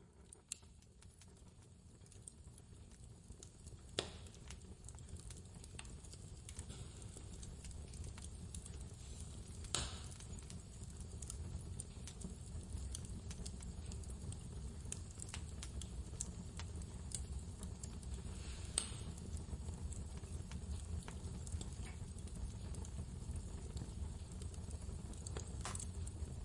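Fireplace crackling over a steady low rumble of wind, with a few sharp pops from the burning wood about four, ten, nineteen and twenty-six seconds in and fainter ticks between. The sound fades in from silence over the first several seconds.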